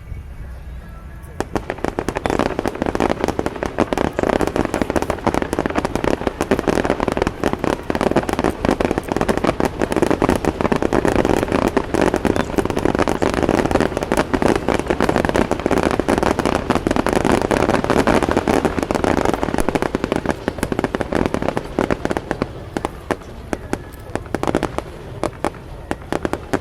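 Fireworks going off in a dense, continuous crackle of rapid pops. It starts about a second and a half in and thins out near the end.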